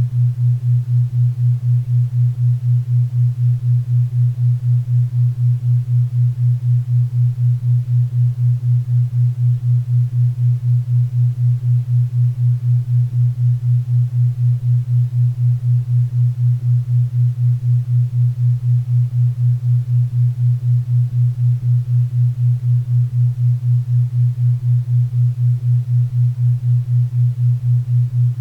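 Synthesised 4 Hz theta-wave beat: a low hum-like tone pulsing evenly about four times a second, with faint pink and brown noise hissing underneath.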